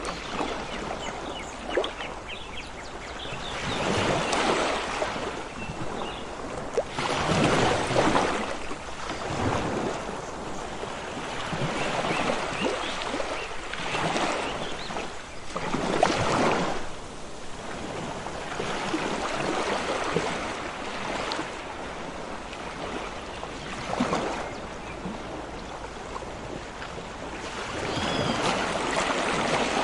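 Ocean waves washing in and draining back, with a louder surge every few seconds.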